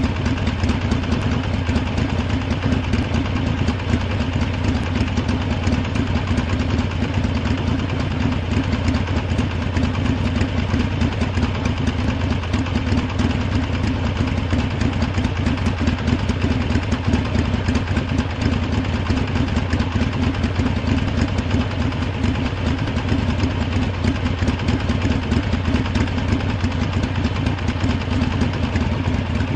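Harley-Davidson V-twin motorcycle engine idling steadily, with an even, fast-pulsing exhaust note and no revving.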